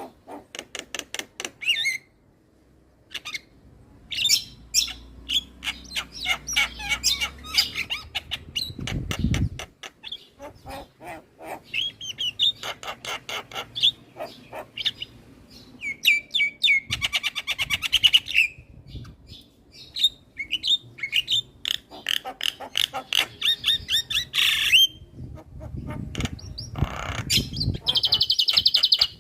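Javan myna (jalak kebo) singing a busy, chattering song of rapid clicks, harsh notes and short whistled phrases. A low rumble is heard briefly about nine seconds in and again near the end.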